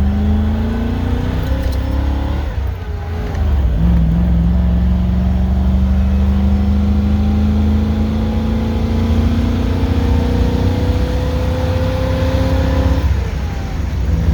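Fuel-injected Ford 460 V8 accelerating through the gears of a manual transmission. The engine note climbs for about two seconds and drops at a shift. It then climbs steadily for about nine seconds before a second shift near the end.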